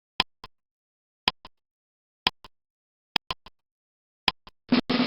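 Sharp clicks, mostly in pairs, about once a second like a ticking timer, over dead silence; near the end a snare drum roll starts.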